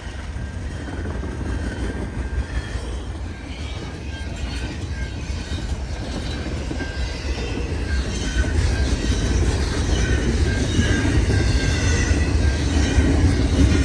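Cars of a long freight train rolling past: a steady low rumble of wheels on rail, with short, intermittent high tones over it, growing louder in the second half.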